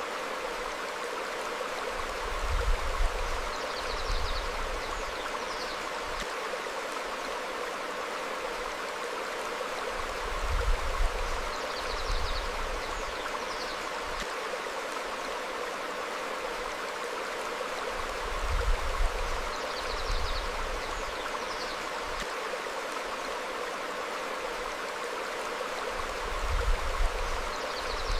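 Stream flowing over rocks: a steady rush of water. Faint short bird chirps come every several seconds, and a low rumble swells four times, about every eight seconds.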